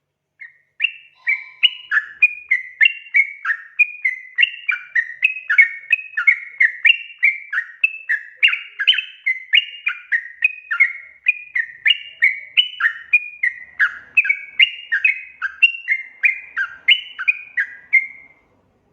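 Yellow-vented bulbul (trucukan) singing a long, rapid run of bubbly notes that jump up and down in pitch, about two phrases a second, stopping shortly before the end.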